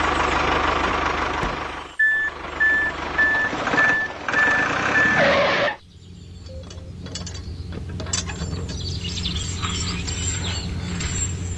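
Heavy vehicle engine running, with a reversing alarm beeping at one pitch about twice a second for a few seconds; the alarm then stops and the engine carries on at a lower, steady rumble that slowly grows louder.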